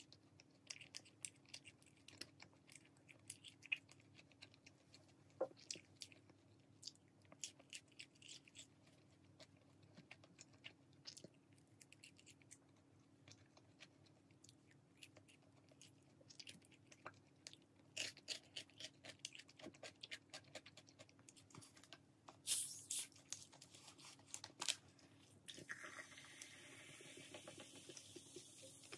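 Close-up chewing of sticky, sauce-glazed fried chicken, with small crunches and wet mouth clicks. Near the end a short hiss, then cola poured into a glass mug, fizzing steadily.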